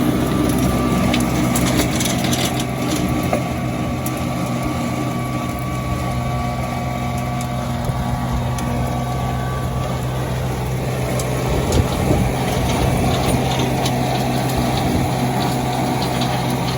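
RK25 compact tractor's engine running steadily under load, driving a Woods 72.40 six-foot PTO rotary tiller through garden soil, with scattered faint clicks.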